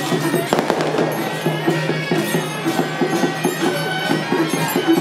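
Dense firecrackers crackling over traditional festival music, with a wind instrument holding steady reedy notes.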